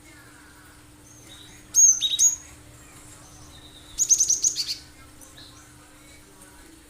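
Cinereous tit (gelatik batu) singing: a pair of sharp high notes about two seconds in, then a fast run of about seven piercing high notes around four seconds in, the rapid 'shot' phrasing that keepers play to get other birds singing.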